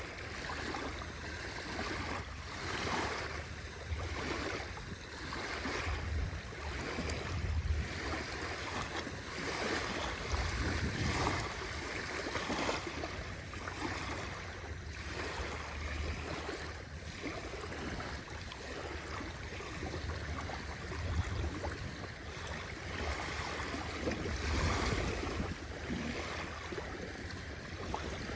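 Small sea waves washing onto a shore, a continuous hiss of surf that swells and eases every couple of seconds over a low rumble.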